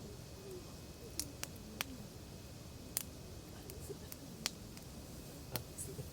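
Wood campfire crackling, with a handful of sharp, irregular pops from the burning logs.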